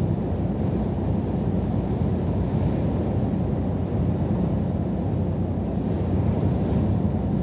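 Scania R500 truck cruising on the road: the steady low drone of its 13-litre six-cylinder diesel blended with tyre and wind noise, unchanging throughout.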